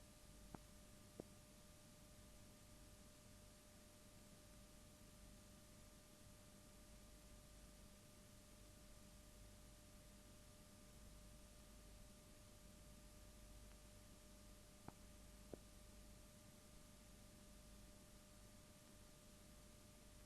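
Near silence: faint steady hiss with a thin steady tone, broken twice by a pair of tiny clicks, once near the start and once about three-quarters of the way through.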